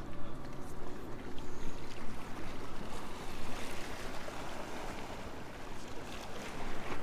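Water lapping against a small fishing boat's hull, with uneven gusts of wind noise.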